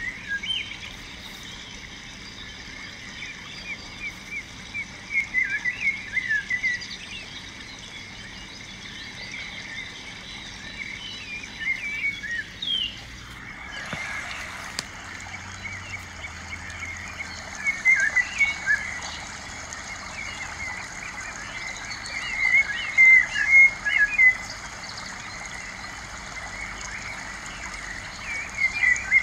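Small birds chirping in several short bursts of quick, high twittering calls, over a steady background hiss that grows stronger about halfway through.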